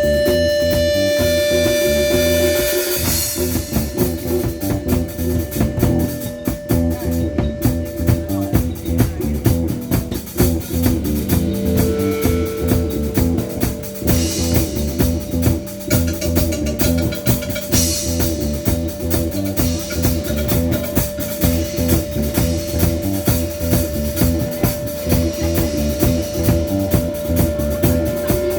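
A live band playing through a PA during a sound check: a drum kit keeping a steady beat with bass and guitar. A single steady tone is held beneath the music, and cymbal crashes come near the start and twice more in the middle.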